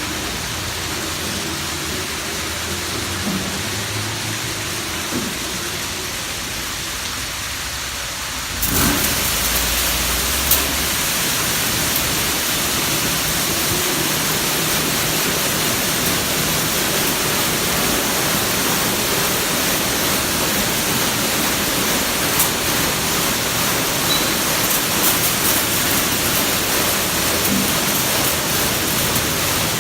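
Touch-free automatic car wash spraying water over a car: a steady rushing hiss of spray that turns suddenly louder and fuller about nine seconds in, then holds steady.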